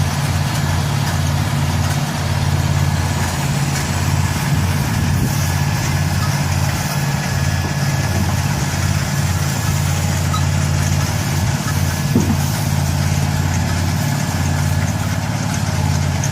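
Engine of a farm harvesting machine running steadily with a constant low hum, with a brief knock about twelve seconds in.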